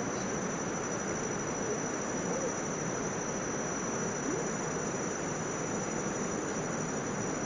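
Steady, even rush of a large waterfall heard at a distance, with no breaks or gusts.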